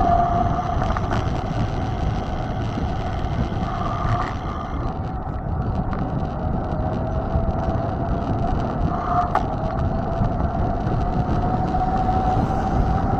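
Wind rushing over the microphone and tyre noise from a mountain bike on the move, with a faint steady whine that slowly rises in pitch.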